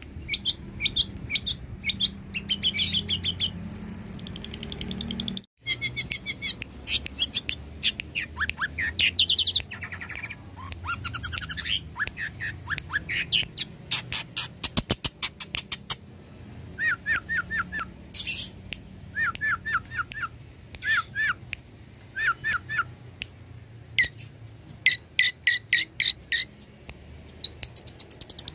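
Long-tailed shrike (cendet) singing a fast, varied song of sharp chirps and trills, with runs of short downward-sliding notes later on. The song cuts out for a moment about five seconds in.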